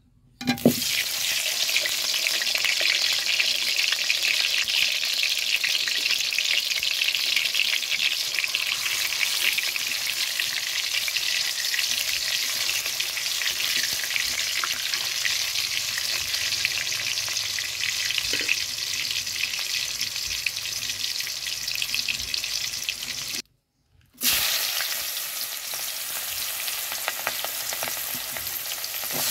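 Whole peeled amra (hog plums) hitting hot oil in an iron karahi: a sudden loud sizzle and spatter about half a second in, then steady frying as a metal spatula turns them. After a short silent break near the end, a quieter sizzle of sliced onions and green chillies frying in the oil.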